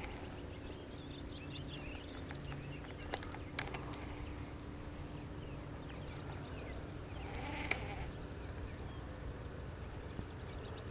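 Faint outdoor background with scattered short, high bird chirps and a couple of sharp clicks, over a low steady hum.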